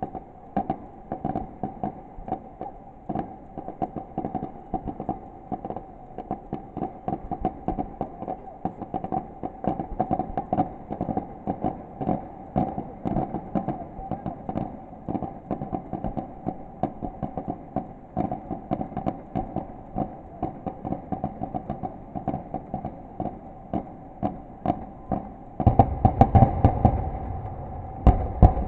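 Fireworks going off in a fast, continuous string of bangs and crackles, several a second, over a steady tone. About three-quarters of the way through, heavier, deeper booms take over briefly, then the barrage thins out.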